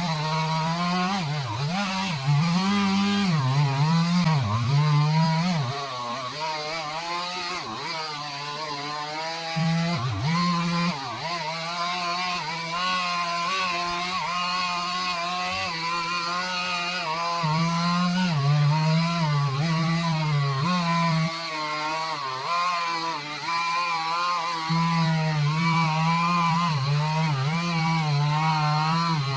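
Chainsaw revved up sharply and run at high speed through a cut in a dead tree's trunk, its pitch sagging and recovering over and over as the chain bites into the wood.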